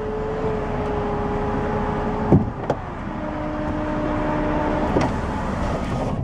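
Car power window motor whining steadily for about two seconds and stopping with a thunk, followed by a second knock, then a lower-pitched motor run of about two seconds that ends with another thunk, over steady car cabin noise.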